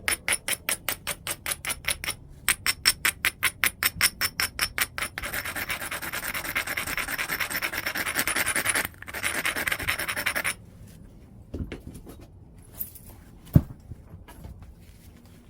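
Stone abrading the edge of a piece of white chert: rapid, even scraping strokes about five a second, then a continuous gritty grinding for about five seconds. A few scattered clicks and one sharp knock come near the end.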